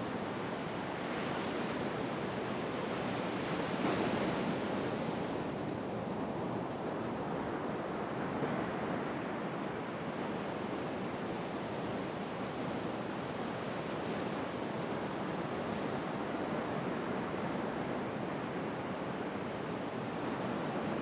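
Ocean surf washing steadily on a beach, with a slight swell about four seconds in.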